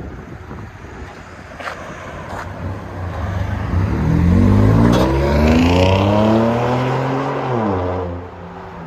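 2014 Ford F-150's 3.5-litre EcoBoost twin-turbo V6 accelerating through a dual exhaust with a CARVEN R-Series muffler and the resonator deleted. The exhaust note climbs in pitch for a couple of seconds, holds, then drops off as the throttle is let go near the end.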